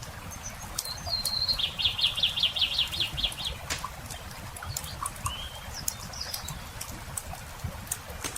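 A songbird sings one phrase, a held high note running into a fast trill of about a dozen notes, and gives a couple of short chirps a few seconds later. Through it all run the scattered crackles and pops of a campfire.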